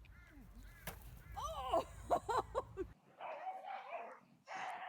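A dog whimpering and yipping in several short, high cries that rise and fall. About three seconds in, these give way to a few rougher, barking sounds.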